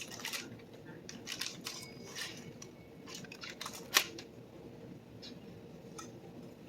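Light clicks and taps of kitchen utensils while food is being plated, with one sharp click about four seconds in.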